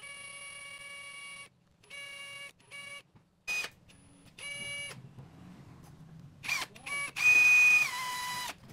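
A small electric motor whining in a string of short bursts that start and stop abruptly, one rising quickly in pitch; the longest and loudest burst, near the end, drops in pitch partway through.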